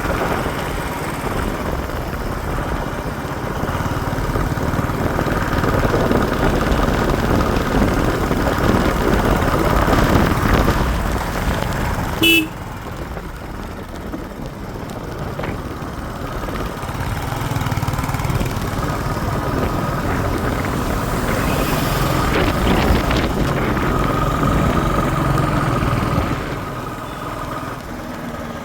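Royal Enfield motorcycle on the move, its engine running under steady road noise. A single short horn toot sounds about twelve seconds in.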